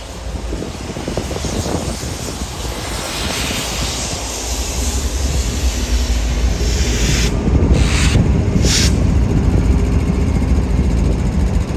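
Diesel freight locomotives approaching, a low engine rumble growing steadily louder. Two short hissing bursts come about eight seconds in.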